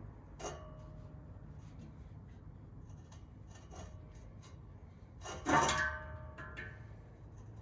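Light clicks and taps of metal on metal as the aftermarket exhaust pipe is handled during removal, then a louder metallic clank with a brief ring about five and a half seconds in.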